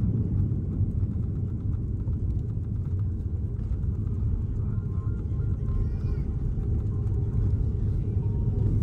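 Steady low rumble of engine and airflow noise inside the cabin of an Airbus A330-300 airliner with Rolls-Royce Trent 700 engines.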